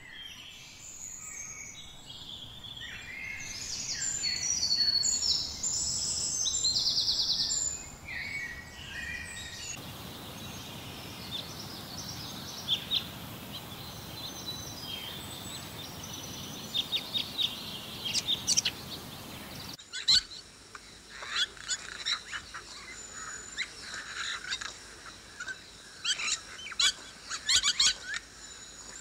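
Birds chirping and calling in three clips joined by cuts. Bright chirps run through the first ten seconds, then comes a quieter stretch of steady hiss with occasional chirps, and from about twenty seconds in a run of quick, short chirps.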